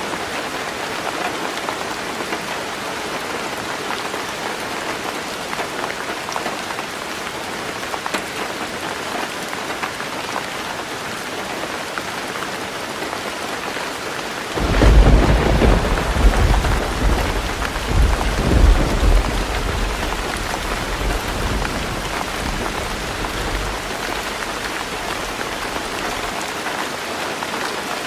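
Heavy rain drumming steadily on a roof. About halfway through, a thunder clap breaks in with a deep rumble that rolls in a few swells and fades away over about ten seconds.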